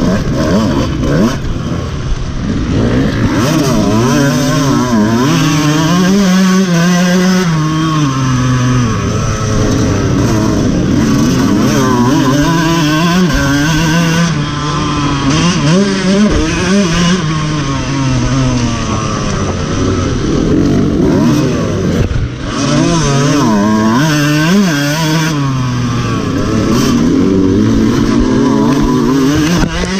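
Dirt bike engine heard up close from a camera mounted on the bike, revving up and down over and over as the rider works the throttle, its pitch climbing and dropping through the gears. A brief dip in loudness about two-thirds of the way through.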